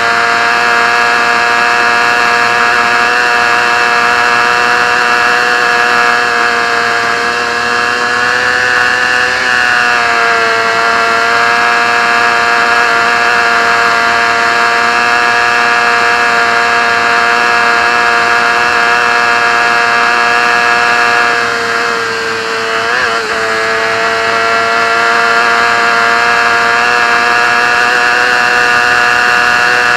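Racing motorcycle engine heard from onboard, running flat out at high revs. It eases slightly about a third of the way in, then backs off more deeply and briefly about three-quarters through before pulling high again.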